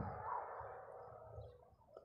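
Faint bird calls over a low, uneven rumble and hiss, fading a little near the end.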